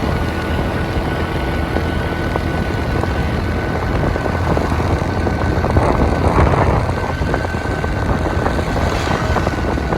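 Motorbike running on the move, its engine hum mixed with a steady rumble of wind on the microphone; the noise swells briefly about six seconds in.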